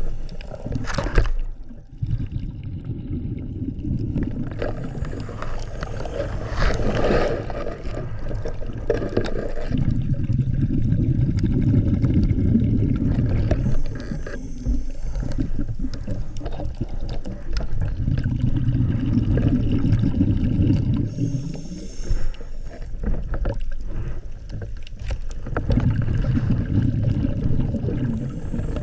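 Water sloshing and gurgling around the camera, with a low rumbling noise that swells and fades every several seconds.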